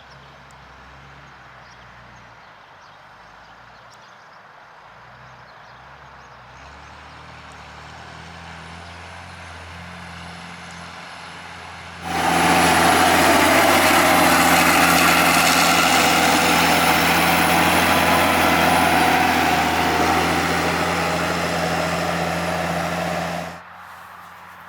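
Large farm tractor's diesel engine running under load while ploughing, growing louder as it approaches. About halfway through it becomes much louder, with a steady whine over the engine, then cuts off suddenly near the end.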